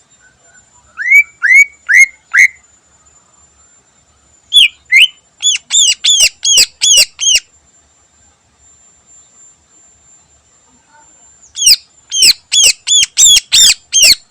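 Cucak ijo (greater green leafbird) singing loud, sharp, repeated notes in three bursts. First come four short upward-sweeping notes, then two quick runs of about eight notes each, roughly three to four a second.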